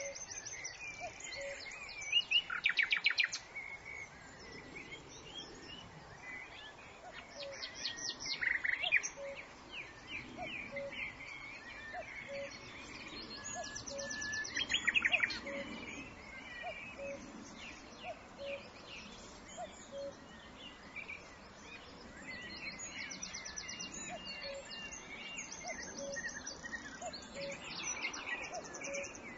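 Several songbirds singing and calling, with three loud rapid trills, the loudest about halfway through. Under them, a faint short low note repeats about once a second.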